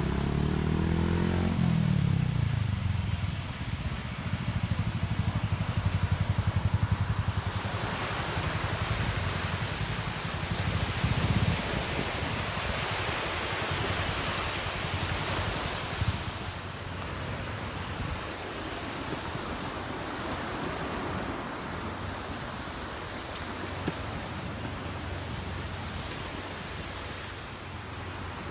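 A low engine-like hum falls in pitch in the first couple of seconds, and a low rumble carries on until about eleven seconds in. After that a steady rush of surf and wind takes over.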